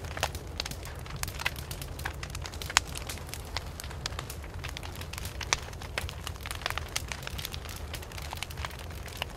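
Wood fire crackling, with irregular sharp pops and snaps, the loudest about three and five and a half seconds in, over a steady low rumble.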